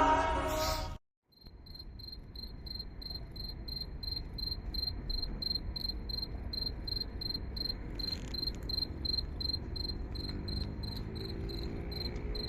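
Backing music ends about a second in; after a brief silence a chirping insect keeps up a steady high-pitched pulsing of about three chirps a second over a low steady outdoor background.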